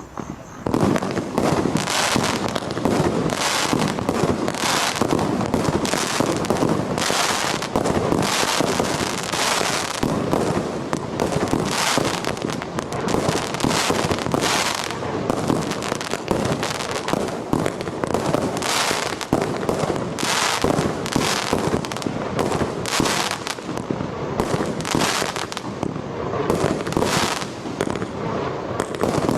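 Star Fireworks 'Apocalypse' firework firing a continuous barrage: sharp bangs more than once a second over dense crackling, building to full intensity about a second in.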